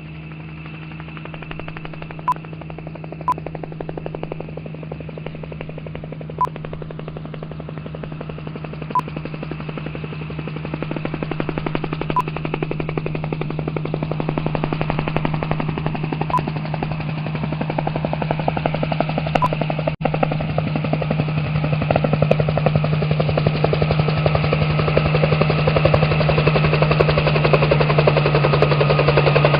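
An engine running steadily with a fast rattling pulse, growing gradually louder, with a few short high blips in the first twenty seconds.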